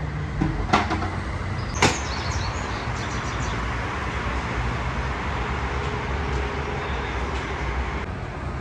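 Steady, even background noise with two sharp knocks about a second apart near the start, followed by brief high metallic ringing.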